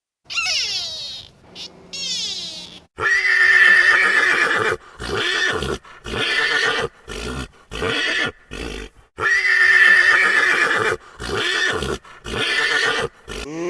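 Horse neighing over and over: a series of loud, quavering whinnies, each about one to two seconds long, from about three seconds in.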